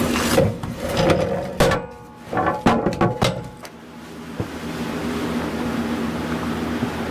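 Freshly sawn wooden boards knocking and clattering against each other several times in the first three and a half seconds. A steady machine hum drops out during the clatter and returns about four and a half seconds in.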